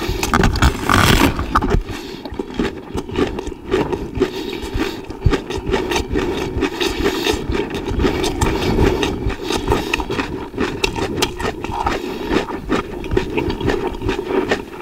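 Crisp crunching and chewing of raw napa cabbage leaves, many irregular bites and munches.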